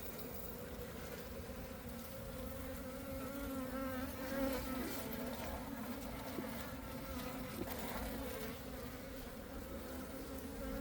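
Honeybees buzzing steadily, many flying close around the person, with their wingbeat hum wavering slightly in pitch as they circle; the colony is agitated and defensive, some trying to sting.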